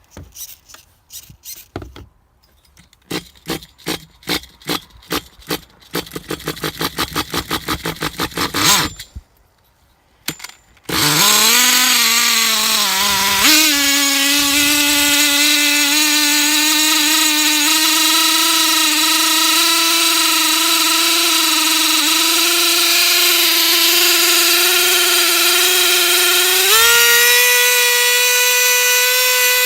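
A Traxxas T-Maxx's small nitro engine being cranked over with quickening strokes, then catching about eleven seconds in and running at a loud, steady high-pitched scream, stepping up in revs twice. It screams at high revs with no throttle applied, a high-idle fault that the owner suspects may come from air bubbles in the fuel line or the carburettor setting.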